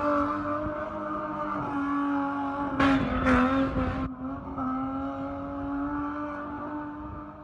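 Car engine held at high, steady revs while spinning. About three seconds in there is a roughly one-second burst of tyre noise.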